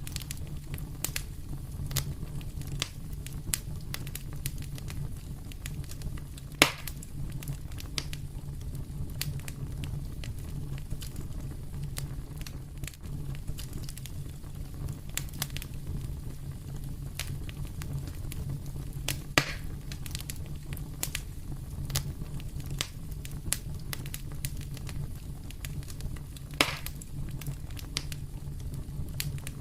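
Wood fire crackling in a fireplace: a steady low rumble of flames under scattered small crackles, with three louder pops spread through.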